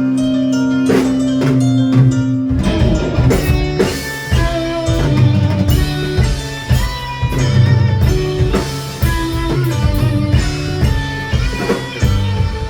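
Live prog rock band playing: electric guitar, bass and drum kit. Sustained low notes for the first couple of seconds, then a busy run of changing notes with drum hits.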